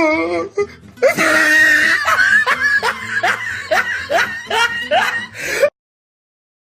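Laughter sound effect over music: a run of short, rising 'ha' calls about two a second, which cuts off abruptly about a second before the end into dead silence.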